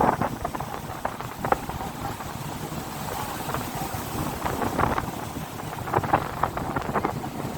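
Wind buffeting the microphone aboard a moving motorboat, over the steady rushing noise of the boat and water, with irregular gusts.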